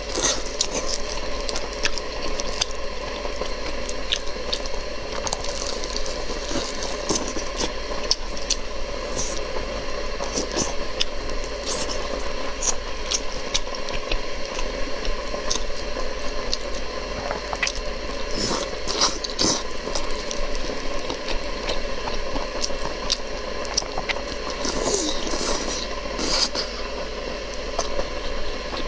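Close-miked chewing of steamed chicken: a run of wet mouth clicks, smacks and squelches as the meat is bitten and chewed, over a steady low background hum.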